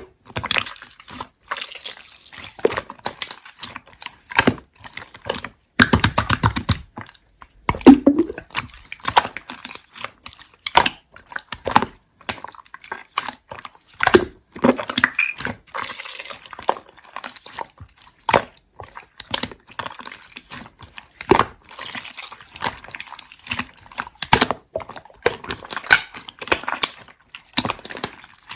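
Slime being squished and played with by hand, making irregular wet clicks and pops, with a quick run of popping about six seconds in.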